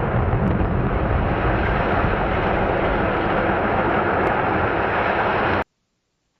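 Steady, loud rumbling roar from an explosive building demolition, which cuts off abruptly about five and a half seconds in.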